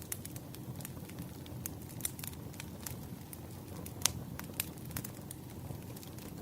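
Bonfire burning with a low, steady rumble of flame and scattered sharp crackles and pops from the wood, the loudest pop about four seconds in.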